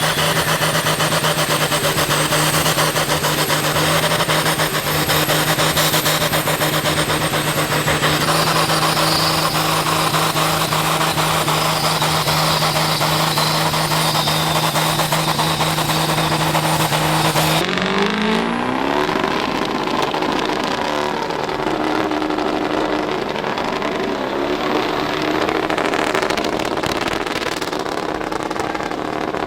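Diesel truck engine held at steady high revs under a loud hiss. About 18 seconds in the pitch slides and the hiss drops away, and the engine revs up and down after that.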